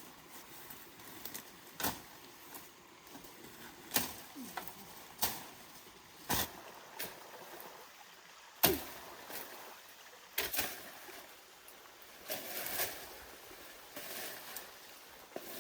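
Irregular sharp knocks and clunks, about one every second or two, with the loudest a little past halfway, over a faint steady hiss.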